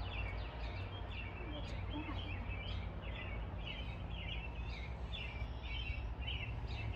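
Birds chirping: short high chirps repeating several times a second, over a steady low background hum.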